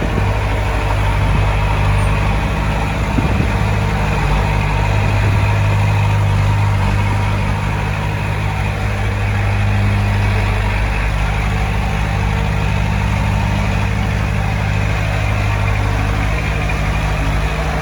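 Heavy diesel engine of earthmoving equipment running steadily with a low, even drone.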